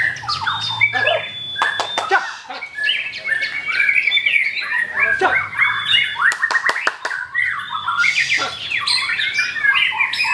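White-rumped shama (murai batu) singing a rapid, varied song of whistles, chirps and trills, with two quick runs of sharp clicks about two and seven seconds in.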